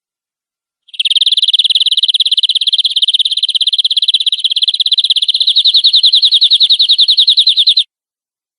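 Domestic canary singing one long, rapid trill of evenly repeated high notes. The trill starts about a second in, lasts about seven seconds and cuts off abruptly.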